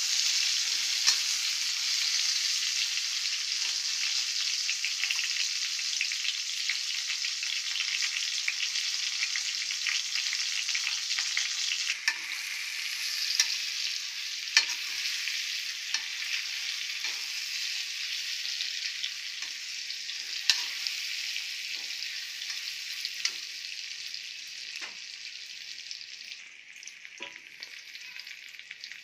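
Raw mango wedges sizzling in hot oil in a wok, with a metal spoon scraping and clicking against the pan as they are stirred. The sizzle dies down near the end.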